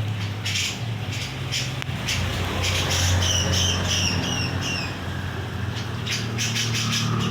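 Cucak jenggot (grey-cheeked bulbul) calling in harsh, chattering bursts, with a run of about six short falling whistled notes in the middle. A steady low hum runs underneath.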